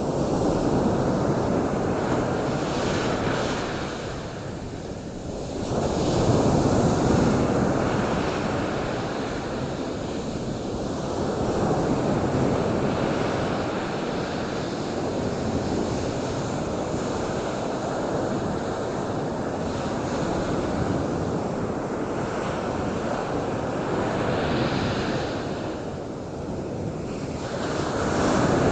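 Ocean surf: waves breaking and washing in, the rush swelling and easing every several seconds.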